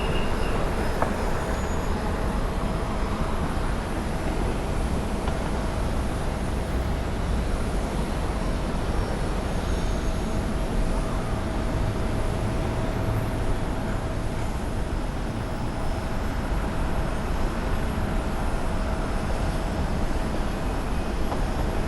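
Jet airliner engines running: a steady deep rumble with a thin steady whine over it.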